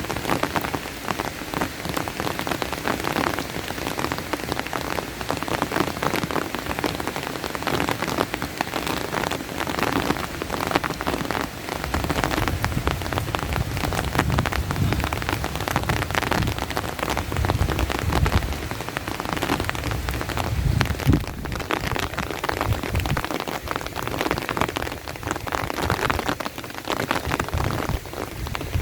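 Steady heavy rain, with dense, sharp drop hits close to the microphone. A low rumble comes and goes through the middle.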